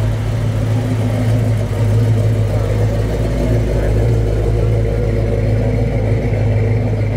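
Classic Buick muscle car's engine running with a steady, deep exhaust note as the car rolls slowly past at low speed, growing a little louder about two seconds in as it nears.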